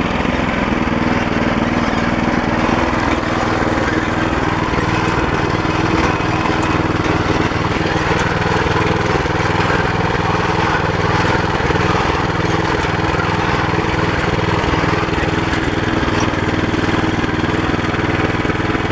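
Walk-behind tractor's engine running steadily, a continuous mower-like drone with no change in speed.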